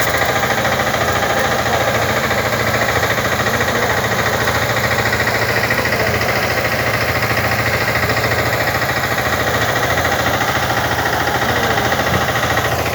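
Small tractor's engine running steadily, with a rapid, even firing pulse.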